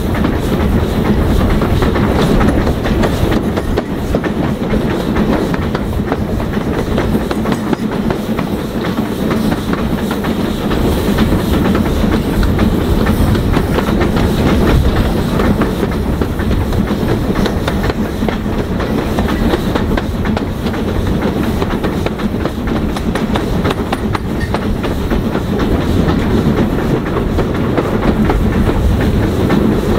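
A train on the move: steady running noise of railway carriages on the track, with wheels clicking over rail joints.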